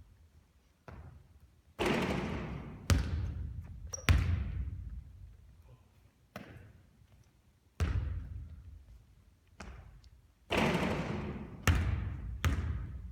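Basketball bouncing and hitting hard surfaces on a court during three-point shooting practice: about ten separate thuds at irregular intervals, each dying away, two of them with a longer rattling tail.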